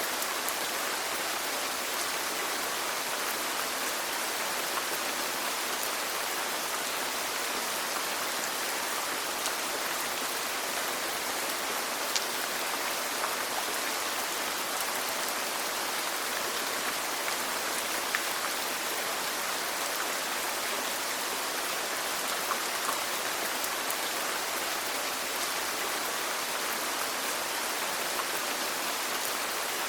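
Steady rain falling, an even hiss of many drops with a few sharper individual drop ticks.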